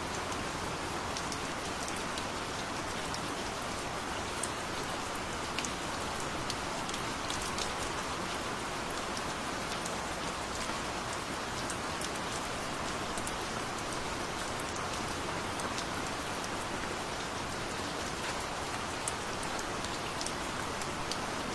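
Steady gentle rain falling, an even hiss with scattered individual drop ticks, and no thunder.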